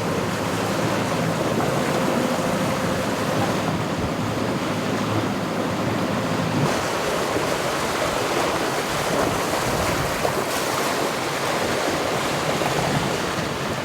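Steady rush of wind and water around a sailboat under way, with wind buffeting the microphone. A faint low hum runs through the first half and stops about seven seconds in.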